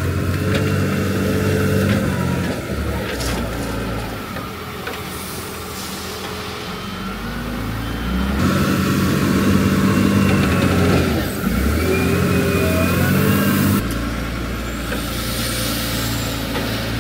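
Engines of road-works machinery running steadily during asphalt surfacing. The sound changes abruptly about eight and fourteen seconds in.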